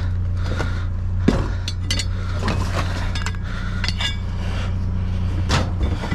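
Scrap being rummaged through in a dumpster: hard metal and plastic pieces knocking and clinking against each other, with a few short ringing metallic clinks, over a steady low hum.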